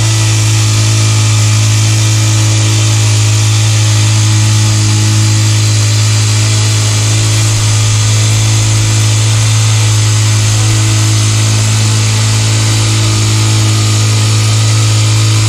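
Small gasoline engine of a power concrete screed running at a steady high speed, a constant loud drone.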